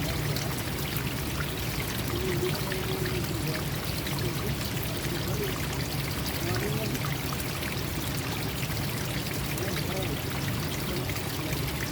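Forest stream flowing steadily, with small gurgles of water running over stones.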